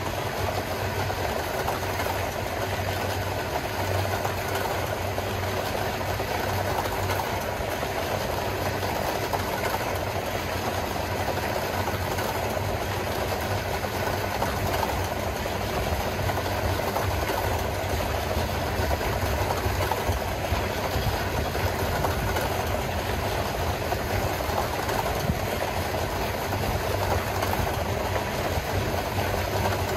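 Freight train running steadily: a diesel locomotive's engine hum mixed with continuous rail noise, with no change in level.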